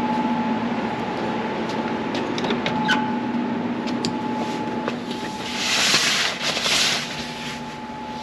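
Steady hum of an air conditioner or fan, with light clicks and knocks of parts being handled. About six and seven seconds in there are two short bursts of hiss or rustling.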